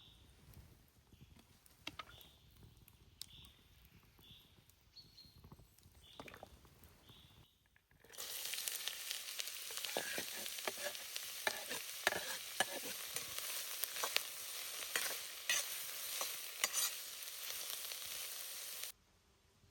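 A small bird chirps, one short high call about once a second. Then, with a sudden cut, food sizzles and crackles loudly in a hot frying pan for about eleven seconds before stopping abruptly.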